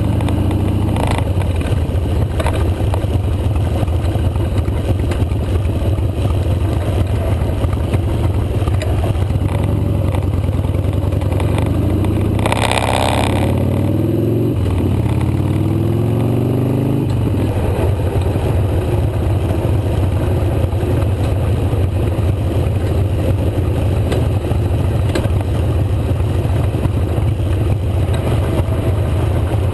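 Motorcycle engine running steadily under way, with a loud rushing sound lasting about a second some twelve seconds in. The engine pitch then rises and falls for a few seconds before it settles again.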